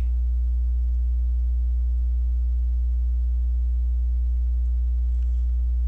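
Loud, steady low electrical mains hum with faint higher overtones, and a faint click or two near the end.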